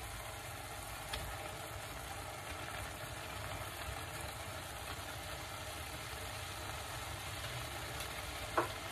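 Chopped onions and raw minced beef frying in a pot, a steady low sizzle as the meat is dropped in by hand. A light tick comes about a second in and a sharper knock near the end.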